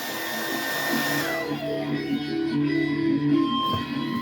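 A hair dryer blowing on high with the cool setting, switched off about a second in, its whine falling away as the motor spins down. Guitar music plays underneath and carries on after.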